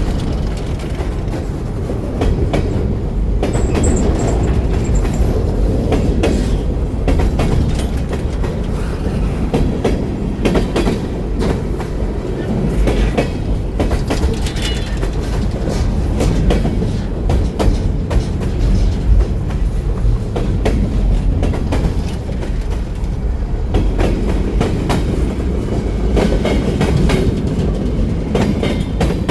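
New York and Atlantic Railway freight train rolling past: a steady low rumble with irregular wheel clicks and knocks.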